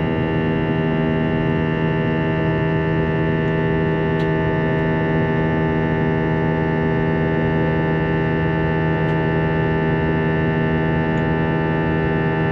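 Airbus A321-231's IAE V2500 turbofan engines heard from inside the cabin in flight: a steady drone made of many fixed tones over a rushing noise.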